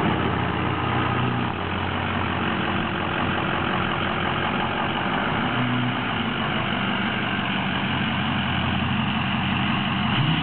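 Straight-piped 2007 Ford 6.0L Power Stroke V8 turbo diesel, running a custom tune through an 8-inch exhaust, idling steadily; right at the end the engine starts to rev up.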